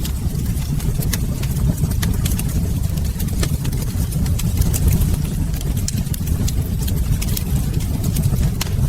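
Wood fire crackling with frequent sharp, irregular pops over a steady low rumble.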